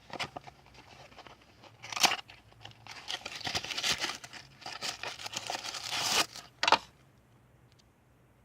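Packaging being unwrapped by hand: irregular crinkling and tearing of wrapping, with a sharp rip about two seconds in and another near the end.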